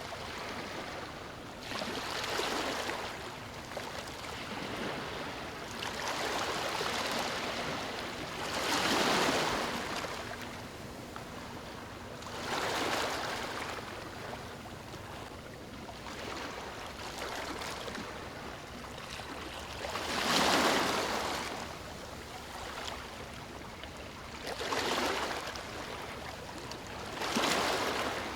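Ocean waves breaking and washing up a beach: a steady hiss of surf that swells into a louder rush every few seconds as each wave comes in.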